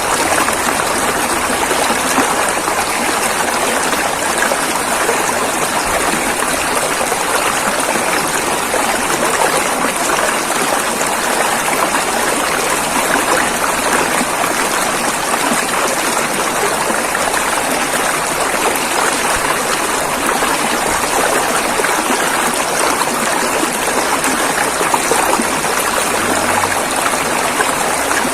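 Rushing river water running over rocks: a steady, unbroken rush of flowing water with fine splashing.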